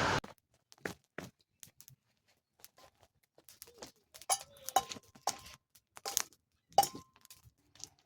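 Cooking gear being handled to make eggs with chorizo: scattered light clinks, clicks and crackles, a few of them ringing briefly, with the busiest handling between about four and seven seconds in.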